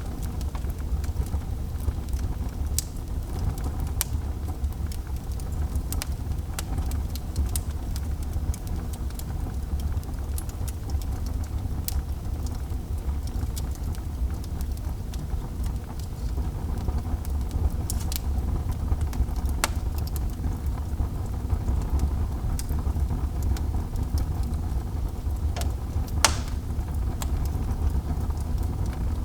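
Fire burning in a fireplace: scattered sharp crackles and pops over a steady low rumble, with one louder pop near the end.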